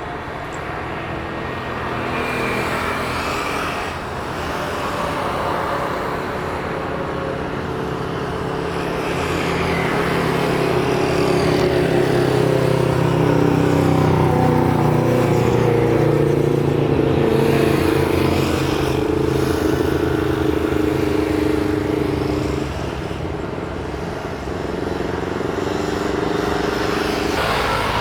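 Steady engine noise of a passing vehicle that swells to its loudest about halfway through and then eases off.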